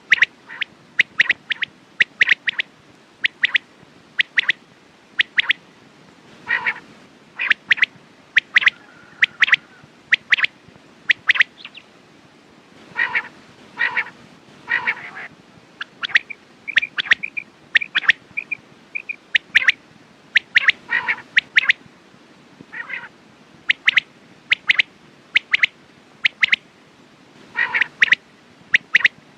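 Quail calling: short, sharp, high notes repeated over and over, often in quick groups of two or three, with a softer run of notes around the middle.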